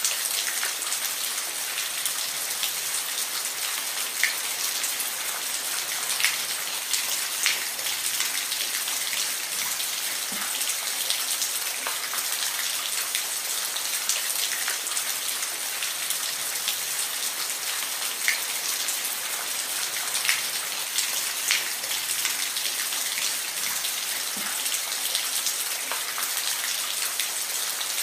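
Steady rain falling, a dense hiss with scattered louder single drops.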